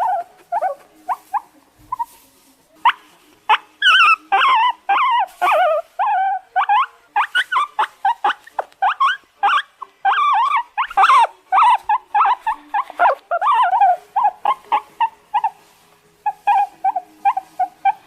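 Guinea pig giving a rapid string of short, high-pitched squealing calls that rise and fall in pitch. The calls thin out for a moment about one to three seconds in.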